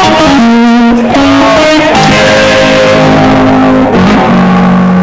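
Distorted electric guitar solo played live and loud: a quick run of notes at first, then long held, sustained notes, ending on a long low note.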